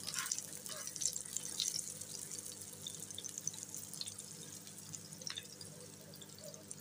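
Paratha sizzling in oil on a hot tawa, a steady high hiss full of small crackles with a few sharper pops. A steady low hum runs underneath.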